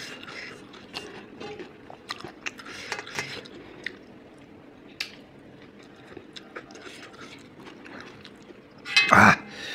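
Quiet chewing by a man eating the last morsels of a meal, with small wet mouth clicks scattered through, and a brief louder mouth sound near the end.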